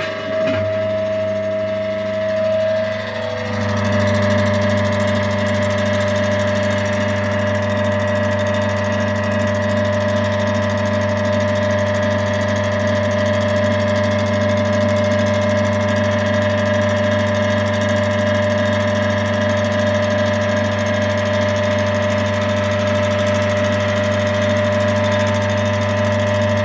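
Electric motor of a 1960s Primus mini single-tub washing machine running with a steady hum, becoming louder about three and a half seconds in.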